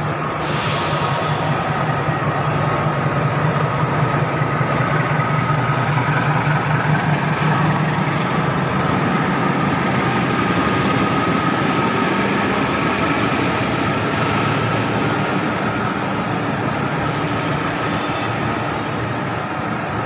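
Diesel-electric locomotive of a passenger train running as it draws in and passes underneath, a steady low engine throb that swells and then eases, with its coaches rolling after it. A short hiss comes near the start and another near the end.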